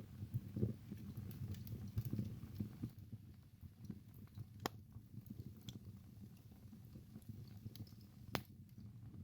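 Wood fire burning in a fireplace: a low rumble of flames with soft irregular crackling, and two sharper pops about 4.5 seconds and 8 seconds in.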